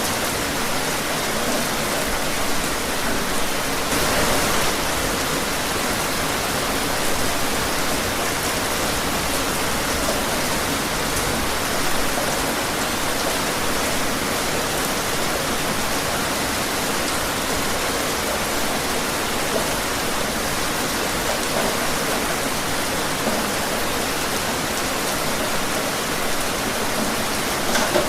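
Steady rain falling, an even hiss of drops with the odd louder patter.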